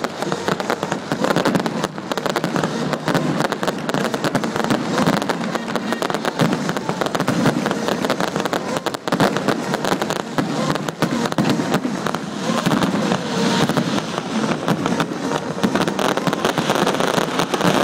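Fireworks display in a dense barrage: many shells bursting in rapid succession with crackling, a continuous run of bangs.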